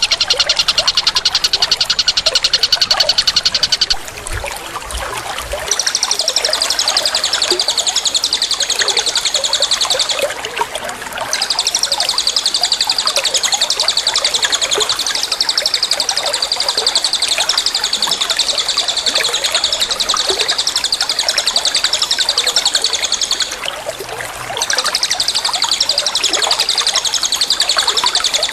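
A high, very rapid trill runs on without a pause except for three short breaks of about a second each, over fainter scattered chirps.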